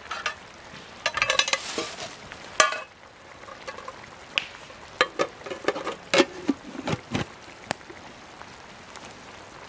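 Metal cookware clattering and knocking as a lid is put on a pot of soaking rice, with a dense run of clinks about a second in and more knocks in the middle. Under it is a steady crackle of sizzling from the campfire.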